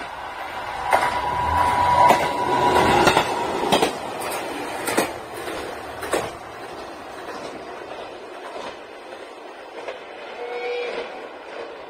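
JR Hokkaido H100 diesel-electric railcar passing at speed. It is loudest in the first few seconds, with a steady whine and a few sharp clacks from the wheels, then fades as it moves away.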